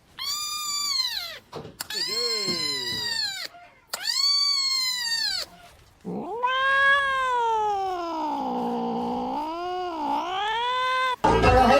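A cat yowling: three drawn-out meows, each about a second and a half and rising then falling, then one long yowl of about five seconds that sinks in pitch and wavers. Music cuts in just before the end.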